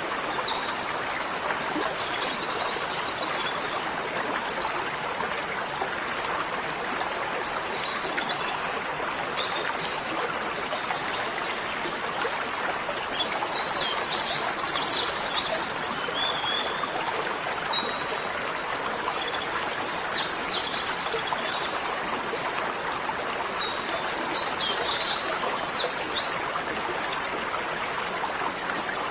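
Steady rushing of a stream or running water, with birds chirping over it in repeated bursts of quick, high calls.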